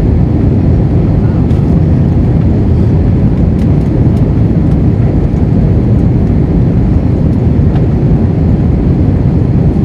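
Steady, loud low rumble of the Airbus A321's jet engines.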